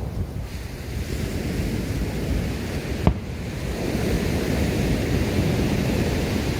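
Steady rumbling noise, partly wind on the microphone, with one sharp fireworks bang about three seconds in.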